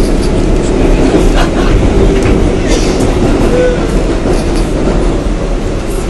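Steady rumble and rattle of a moving passenger train heard from inside the car, with a few sharp clicks of the wheels over the track.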